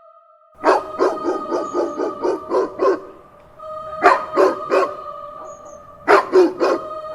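A dog barking in three rapid bursts: about nine quick barks, then three, then three more. Under it runs a steady droning tone of background music.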